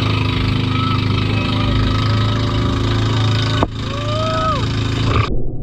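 Outrigger boat (bangka) engine running steadily at a constant speed, with a few short tones gliding up and back down above it. The sound breaks off sharply about three and a half seconds in. Near the end it gives way to a duller, lower rumble.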